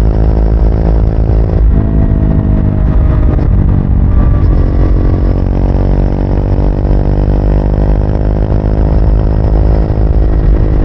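Triumph Speed 400's 398 cc single-cylinder engine running steadily as the motorcycle rides along, with a change in engine note a little under two seconds in before it settles again.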